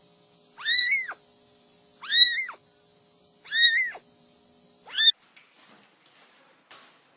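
A cat meowing over and over: four drawn-out meows about a second and a half apart, each rising and then falling in pitch. A short fifth meow cuts off suddenly about five seconds in.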